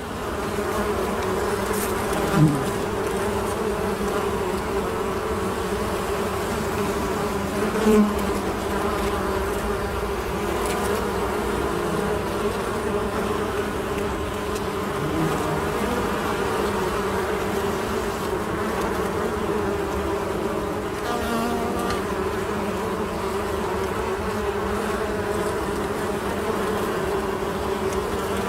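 Honey bees buzzing in a steady, dense hum of many wingbeats. A single bee swells louder as it passes close, about two and a half seconds in and again about eight seconds in.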